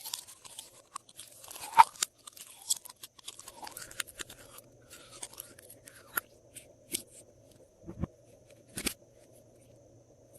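Glossy slime being squeezed and mixed by hand with crunchy add-ins: dense crackling and crunching for the first few seconds, then sparser clicks and sticky pops, over a faint steady hum.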